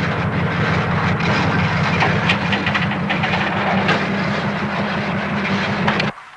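A passing train: a loud, steady rumble with rapid clattering over it, which cuts off abruptly near the end.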